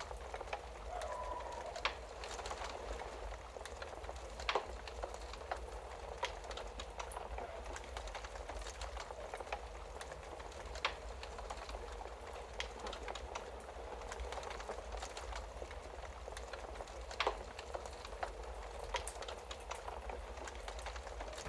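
Wood fire crackling with a steady soft hiss and scattered sharp pops, a few of them louder than the rest.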